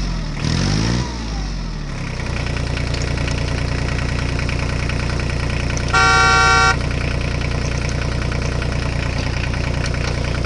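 Vehicle engine sound shifting in pitch for the first two seconds, then idling steadily. One horn honk lasting under a second comes about six seconds in.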